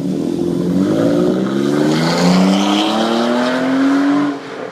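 BMW E46 with a Corsa aftermarket exhaust accelerating hard, the exhaust note climbing steadily in pitch for about four seconds, then dropping away sharply near the end as the throttle comes off.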